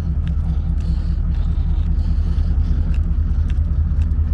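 Diesel train engines idling: a steady, pulsing low rumble, with a few faint clicks over it.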